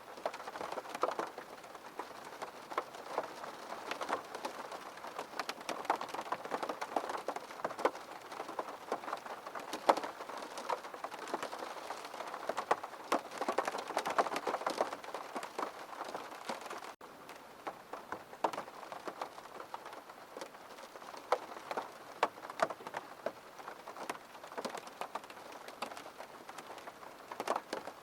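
Steady rain hitting a window pane: an even hiss dotted with many sharp drop ticks. After a brief break about two-thirds of the way through, it runs on slightly quieter.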